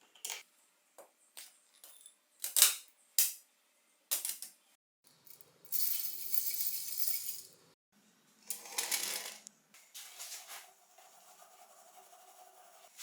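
Small hard parts clinking and rattling as they are handled, with two longer hissing noises in the middle.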